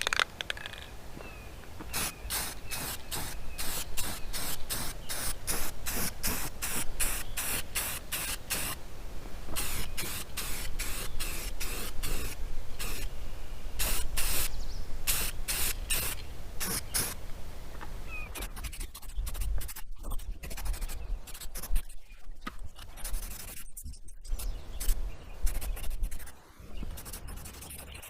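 Rust-Oleum aerosol spray paint can hissing in many short bursts as a light black top coat goes onto a primed truck frame, the bursts coming thick and fast at first and with longer pauses in the last third. A low wind rumble runs underneath.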